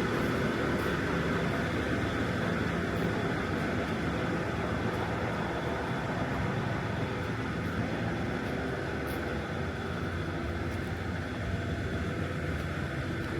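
John Deere 2660 tractor engine running steadily at idle, with an even, fast low pulsing.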